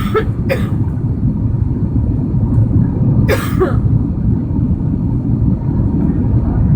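Steady low rumble of an Airbus A330-300 cabin in flight on descent: engine and airflow noise. Three brief sharp noises cut through it, two close together near the start and one about three seconds in.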